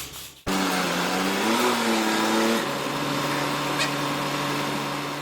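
A machine motor running with a steady hum; its pitch rises about a second in, then drops to a steadier, lower tone.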